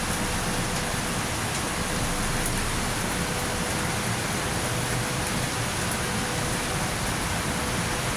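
Heavy rain falling steadily, a dense even hiss that does not let up, with a faint steady hum underneath.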